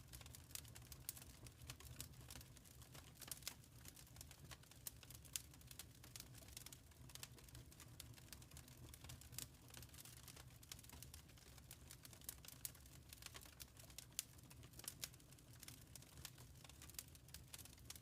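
Wood fire crackling quietly, with irregular sharp pops and snaps over a steady low hum.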